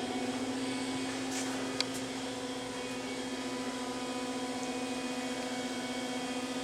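Steady electrical hum of a powered-up Haas VF-3 vertical machining center sitting idle, with one small click about two seconds in.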